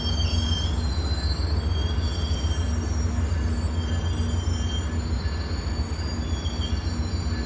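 A train rolling past with a steady low rumble, its wheels giving short high-pitched squeals every second or so.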